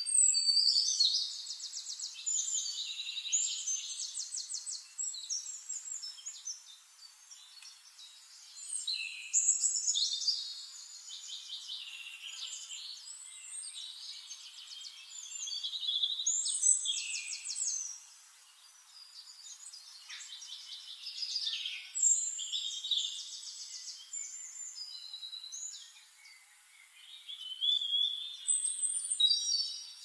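Songbirds singing: high, rapid trilled phrases come one after another with short pauses between them.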